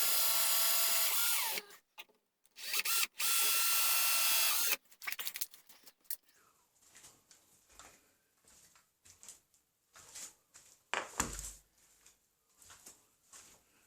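A power tool with a whine runs in two bursts of about two seconds each on the wooden gunstock. After that come quieter scattered scraping and handling sounds.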